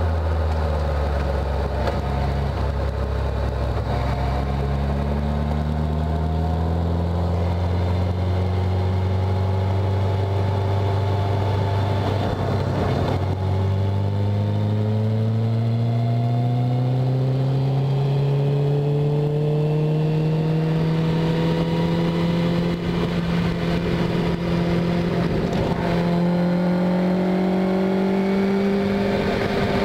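Caterham Seven's engine heard from the open cockpit under hard acceleration. Its pitch holds for the first few seconds, then climbs steadily as the car gathers speed.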